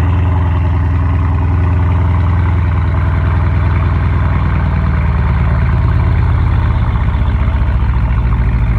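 Mercedes car engine idling steadily, just started, with a loud low hum.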